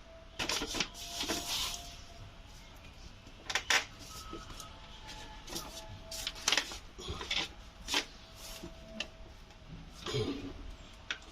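Irregular clicks, light knocks and short rubbing scrapes of hand work on car parts, with a faint steady thin tone underneath.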